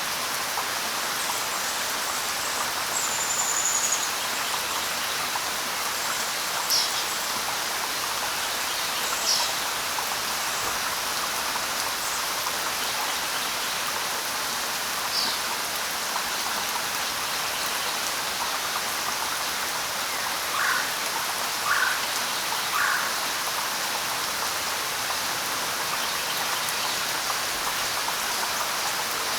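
Steady hiss of light rain falling on leaves, with a few scattered bird calls on top: a high, thin whistle about three seconds in, a few brief chirps, and three short lower notes near the end.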